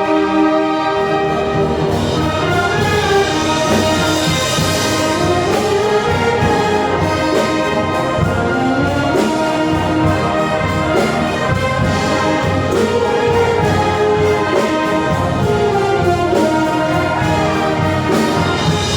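Filipino brass band playing: brass melody lines move up and down over sustained band chords, with a steady percussion beat underneath.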